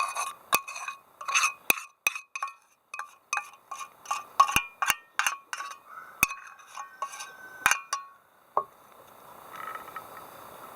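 Kitchenware clinking: a quick, irregular run of sharp clinks, each with a short ringing tone, that stops a little after two-thirds of the way in.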